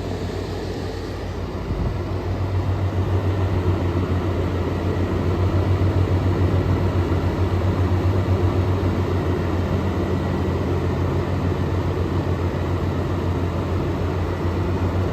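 18,000 BTU Frigidaire air conditioner running, its fan blowing steadily; about two seconds in a low, steady hum joins and the unit gets louder, which is the compressor starting.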